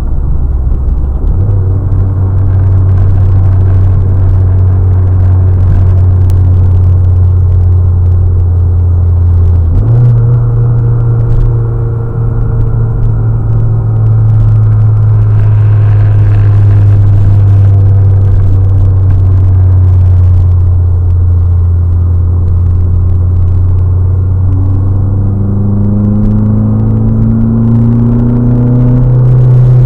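2008 Chevrolet Cobalt's four-cylinder engine idling steadily while it warms up after a cold start from sitting all winter. The hum steps up slightly in pitch about ten seconds in.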